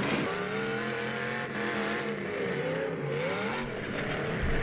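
Demolition derby cars' engines revving, their pitch rising and falling repeatedly.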